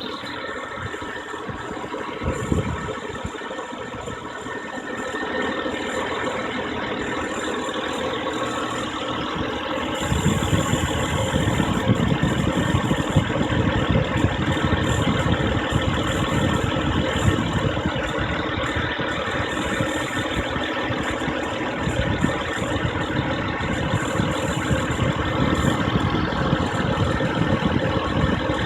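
BMW N54 twin-turbo inline-six idling steadily, with the noise of a failing serpentine belt and tensioner. Its low rumble gets louder about ten seconds in.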